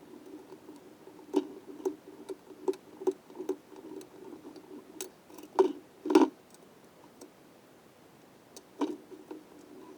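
Tools and metal engine parts clicking and knocking during assembly: a run of light clicks about every half second, then two louder knocks around the middle and a single one near the end.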